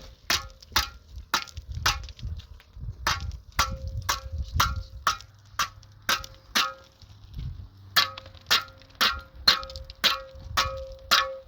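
Repeated sharp metallic strikes, about two a second, each ringing briefly, with a short pause a little past the middle.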